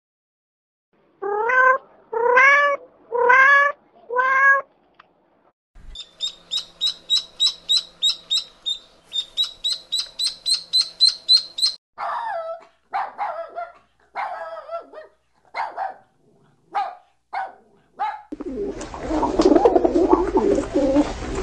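A run of different animal calls. First come four pitched calls, each rising and then falling, then several seconds of rapid high chirping at about four chirps a second, then a series of shorter falling calls, and a loud, noisy stretch near the end.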